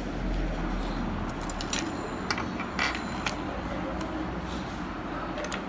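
Small metal and plastic sewing-machine accessories (bobbins, screws, spare parts) clicking and clinking as they are handled, a handful of light clicks, with a steady low hum underneath.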